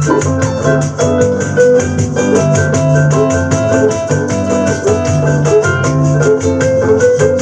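Live bossa nova band playing an instrumental passage: piano melody over bass, guitar and steady percussion.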